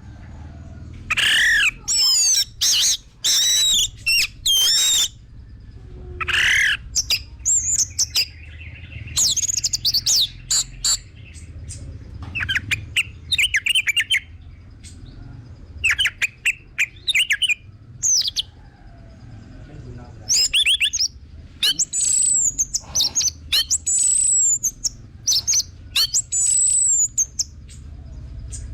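Songbird singing loud, short phrases of clear whistled notes that swoop up and down, one burst after another with brief pauses between, over a low steady background rumble.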